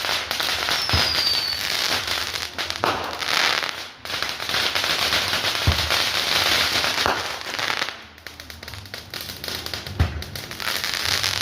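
Fireworks going off: a dense, continuous crackle of many small reports, with deep booms about a second in, near the middle and near the end. A short falling whistle sounds about a second in.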